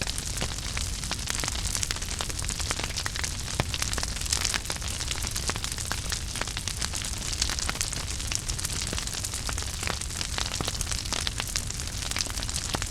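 Wood fire burning in a fireplace: a steady low rumble with many small irregular crackles and pops.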